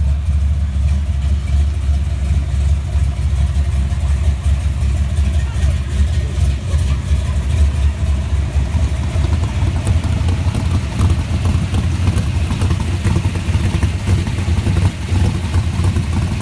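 Low, steady exhaust rumble of classic muscle cars cruising slowly alongside in traffic.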